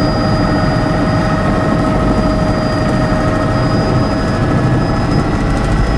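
Helicopter engine and rotor noise heard on board in flight: a steady loud drone with constant whining tones over it.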